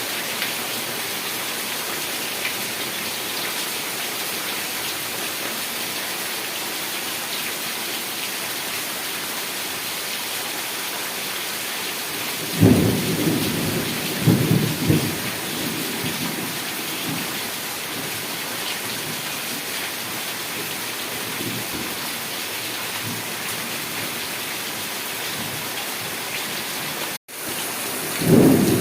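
Steady heavy rain, with a roll of thunder about halfway through that swells twice before fading. Another peal starts near the end, just after the sound cuts out for an instant.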